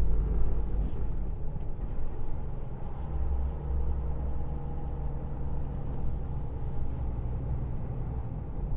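Truck's diesel engine running steadily as the lorry drives along, a constant low rumble.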